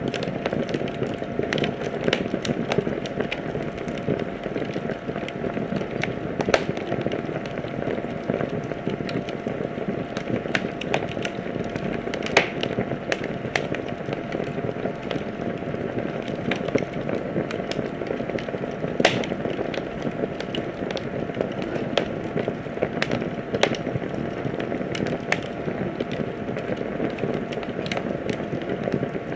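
Wood fire crackling in a fireplace: a steady hiss of burning with frequent small sharp pops and a few louder snaps.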